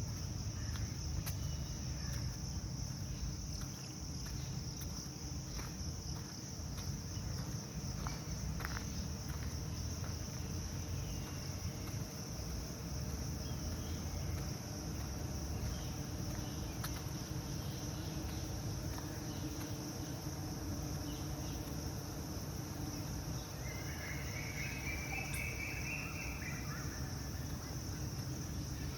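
A steady, high chorus of insects such as crickets, with a low rumble beneath it. A short burst of bird chirping comes in near the end.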